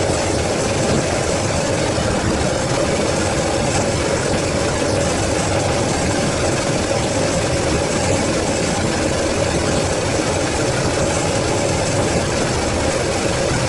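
Carbureted Toyota 4A-GE inline-four engine idling steadily, running after its rebuild.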